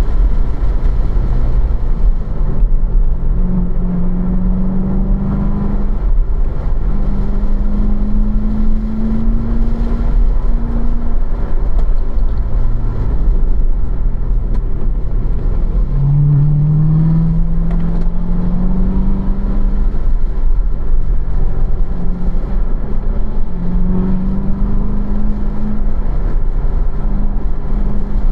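2015 Corvette Z06's supercharged V8, heard from inside the car, running in third gear between roughly 2,500 and 4,000 rpm. The engine note rises in pitch several times as the car accelerates and falls away in between as it lifts and brakes for corners.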